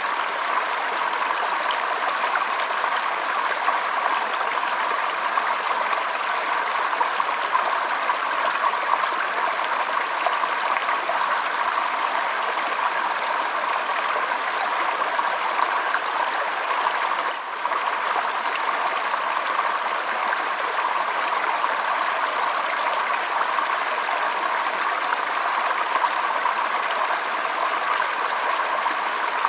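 Running stream water, a steady rushing and trickling flow, with a brief dip in level about seventeen seconds in.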